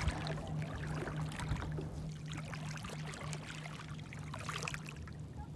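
A steady low motor hum that pulses evenly, under a wash of water noise with faint scattered clicks.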